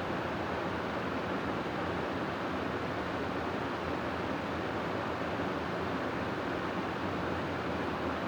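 Steady wind noise for sleep: an even, constant rushing hiss with no gusts or swells.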